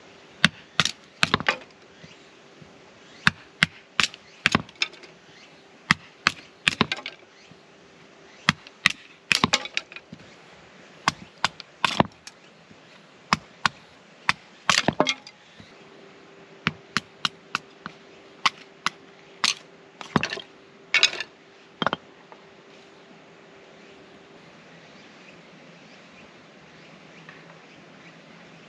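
Firewood being chopped or broken: many sharp wooden cracks in irregular clusters, stopping about three quarters of the way through.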